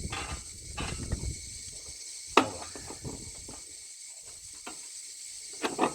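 Light metal clicks and knocks as a mower-deck pulley with its belt is handled and slid onto the spindle shaft, with one sharp clank a little over two seconds in and a few more knocks near the end. A steady high hiss runs underneath.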